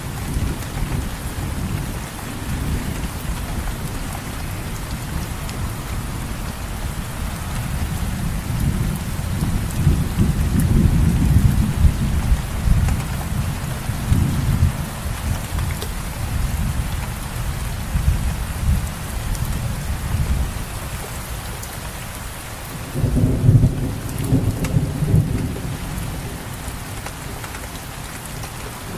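Steady rain falling, with low rolling thunder rumbling under it. The rumble swells about ten seconds in and comes loudest in a burst about two-thirds of the way through.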